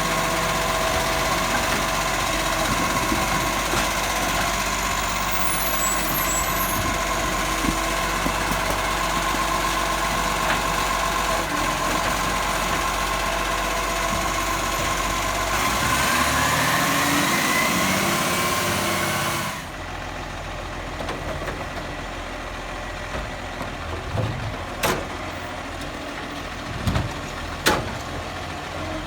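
Garbage truck running with a steady engine drone. Past the middle the sound rises in pitch for a few seconds as the engine revs, then drops off suddenly. A few sharp knocks or clanks follow near the end.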